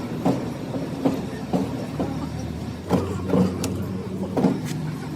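Workshop noise during a brake disc repair: a steady machine hum with irregular sharp knocks, roughly one every half second to a second.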